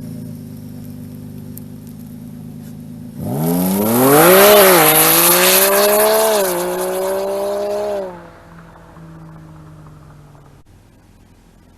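Ford F-150 EcoBoost twin-turbo V6 pickup accelerating hard: about three seconds in the engine note jumps and climbs in pitch, drops back twice at upshifts, then cuts off abruptly and fades to a low running hum.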